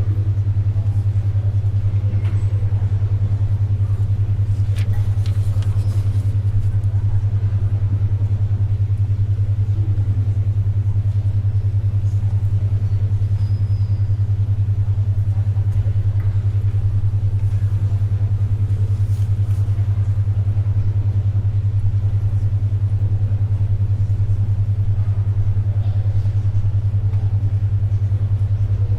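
A steady low hum, the carrier of a 10.2 Hz alpha-wave brainwave tone, runs unbroken and dominates. Beneath it lies faint library ambience with a low murmur of room noise and a few soft clicks and rustles, the kind made by turning pages and writing.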